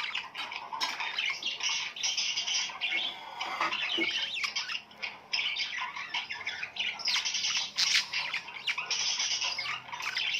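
A crowd of birds chirping and squawking together: a dense, unbroken chatter of short, sharp calls.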